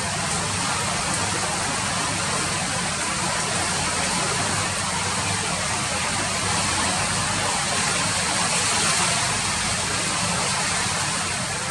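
Steady rain falling, an even, unbroken hiss with no distinct drops or gusts standing out.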